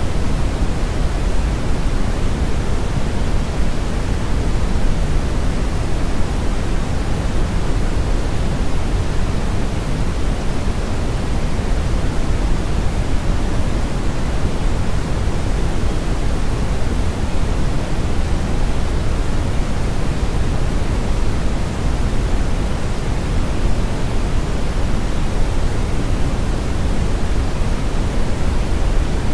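Brown noise: a steady, even rumbling hiss weighted heavily toward the low end, like a strong river current. It does not change.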